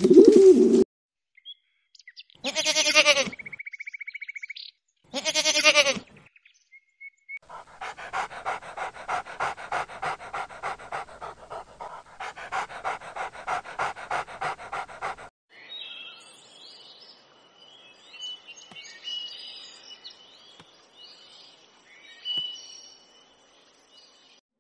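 A pigeon coos briefly at the very start. Then a dog gives two short pitched calls and pants rapidly and evenly for about eight seconds. After that come faint, high bird chirps with a few light taps.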